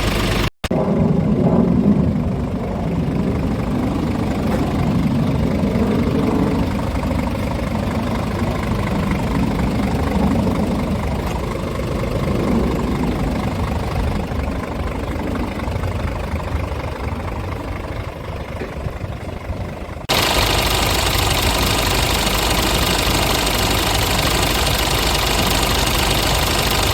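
Diesel engine of a 2018 Scania G450 truck, a 13-litre inline six, idling steadily with a low, even pulse. About 20 seconds in the sound changes abruptly to a brighter, hissier version of the same idle.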